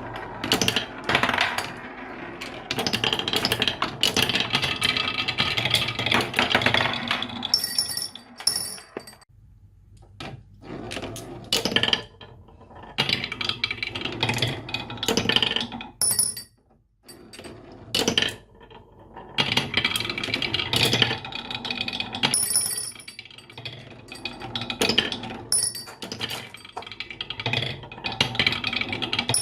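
Many marbles rolling and clattering down a marble run, with dense sharp clicks as they strike the track pieces and each other. The clatter comes in surges with brief lulls.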